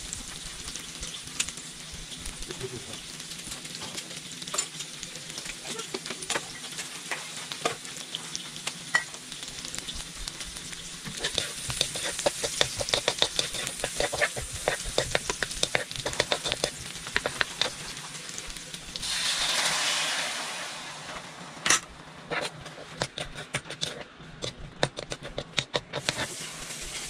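Food sizzling in oil in an electric wok while a metal spoon scrapes and clinks against the pan. About two-thirds of the way in there is a brief surge of hissing as liquid goes into the hot wok, after which the sizzle turns fainter, with occasional clinks of the spoon.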